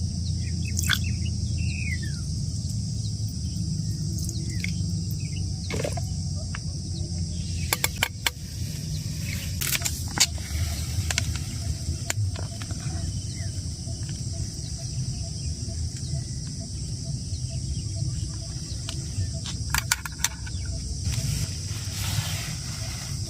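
Outdoor ambience: a steady high insect drone with a few short bird chirps over a low wind rumble. Several sharp clicks or taps come through the middle and near the end.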